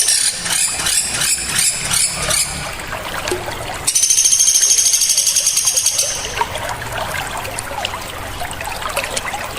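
Small birds singing sharp, high-pitched calls: a run of quick repeated notes, then about four seconds in a loud, dense, buzzing trill that lasts about two seconds, followed by softer chattering.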